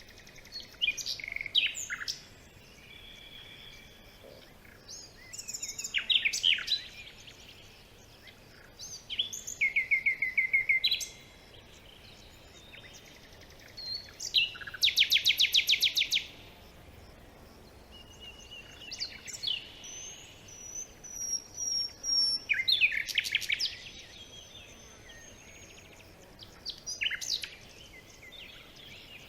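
Several forest birds singing and calling in turn, short phrases every few seconds, with a rapid trill about halfway through and another near the end.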